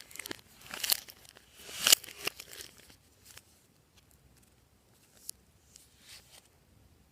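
Slime being squeezed and stretched by hand, giving crackly pops and crinkles. These come thick over the first three seconds, then only a few scattered small pops.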